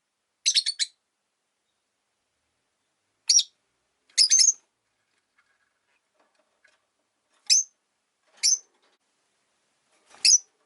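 Rosy-faced lovebird giving short, sharp high-pitched chirps: a quick run of about four near the start, then five single chirps spaced a second or more apart.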